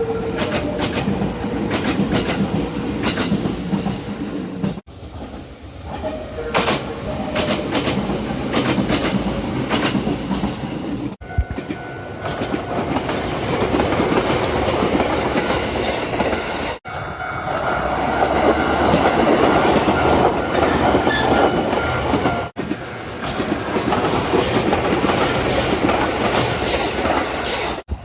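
Nagano Electric Railway express trains running past, wheels clattering over the rail joints. Several short clips follow one another, each cut off abruptly every five or six seconds.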